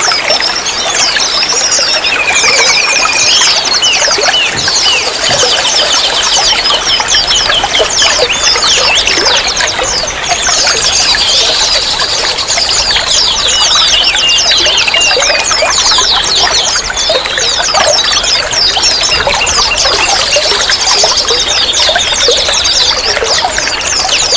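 Running water pouring and trickling steadily, with small songbirds chirping and twittering rapidly over it.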